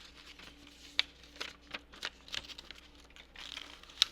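Half sheet of paper being folded and creased by hand: rustling and crinkling with sharp crackles as the folds are pressed, the sharpest about a second in and at the very end.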